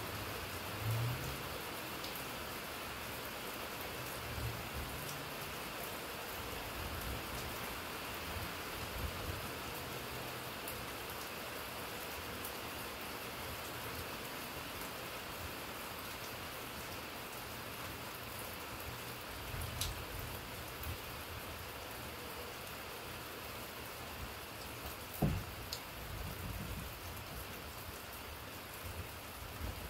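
Steady rain falling, an even hiss with scattered drop ticks. A few short low thumps stand out, the sharpest late on.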